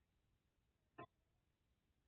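Near silence: room tone, broken once by a brief faint sound about a second in.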